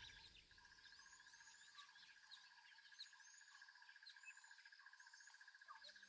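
Faint bush ambience: a steady, rapidly pulsing trill with scattered short, high bird chirps. Low music tones come in near the end.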